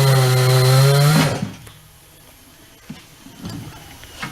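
Tire changer's turntable motor running steadily, spinning the wheel to work the tire bead on, then stopping about a second and a half in. Afterwards only faint clicks and knocks of handling.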